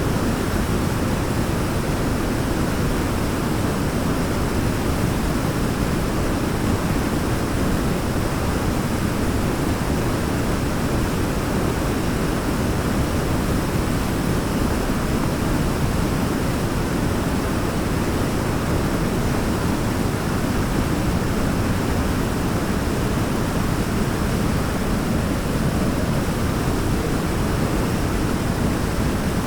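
Waterfall's falling water making a steady, even rush, deepest and strongest in the low end, with no changes or separate splashes.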